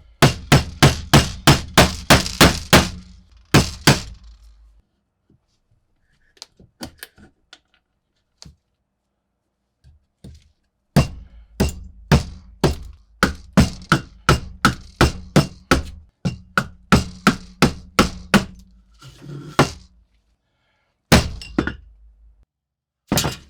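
Fast runs of hard, sharp thunks, about three or four strikes a second, broken by a pause of several seconds, with a couple of single strikes near the end.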